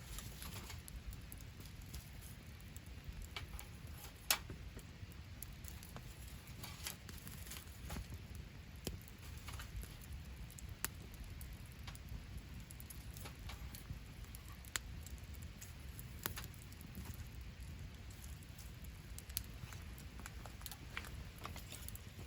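Wood campfire crackling, with scattered sharp snaps and one louder pop about four seconds in, over a steady low background noise.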